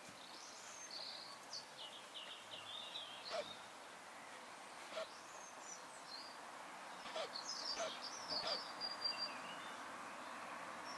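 Intermittent high-pitched squeaking from the video camera's own mechanism: short thin squeaks and little falling glides in a few clusters, with a few soft clicks in between.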